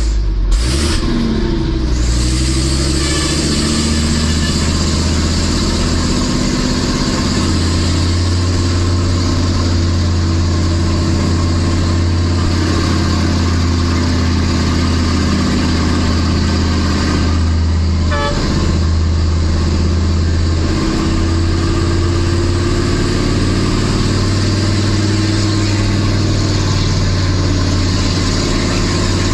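Nissan Diesel Big Thumb truck's RH10 V10 diesel engine pulling hard uphill under a heavy load. The engine note rises in pitch over the first couple of seconds, dips briefly about two-thirds of the way through, then climbs slowly again.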